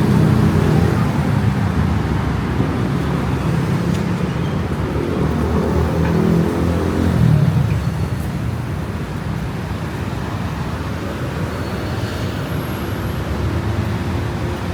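City road traffic: motor vehicle engines running close by over a steady roar of passing cars, the engine hum strongest in the first half.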